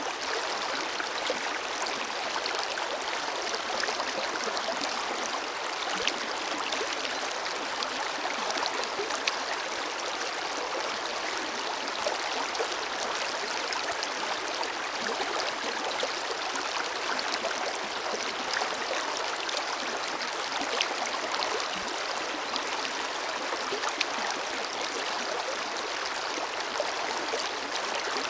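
Forest river flowing steadily over rocks, an even rush of water with small splashes and gurgles through it.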